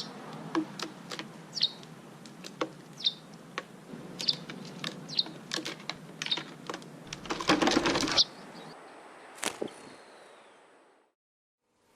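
Small birds giving short, high chirps, mixed with sharp clicks. About seven seconds in comes a dense burst of wing fluttering. The sound fades out near the end.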